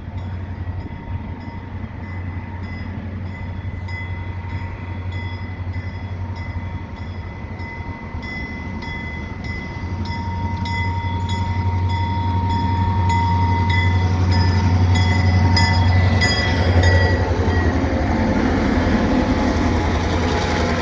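Two Canadian Pacific GP38-2 diesel-electric locomotives approaching at the head of a short tanker train. Their engine drone grows louder as they near, peaking a few seconds before the end. A high steady ringing tone with a fast repeating beat sounds over the engines and fades near the end.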